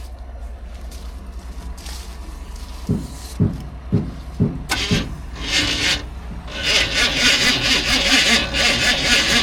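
The truck's engine being cranked by its starter without catching. A few separate thumps come first, then a short burst of cranking, then steady rhythmic cranking from about two-thirds of the way in.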